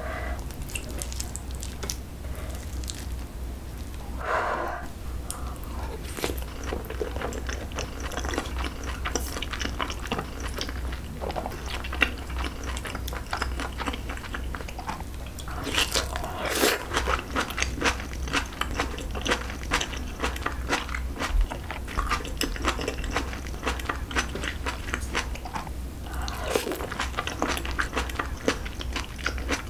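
Close-miked chewing of white rice with fried egg and aged kimchi: a steady run of fine wet clicks and crunches, with louder crunchy bites about four seconds in, around the middle and near the end. A steady low hum runs underneath.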